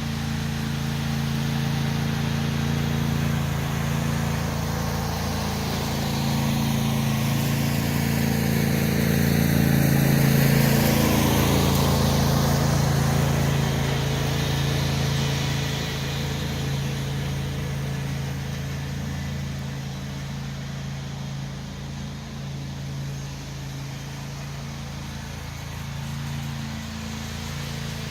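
Tractor engine running steadily under load, growing louder around ten seconds in and then easing off.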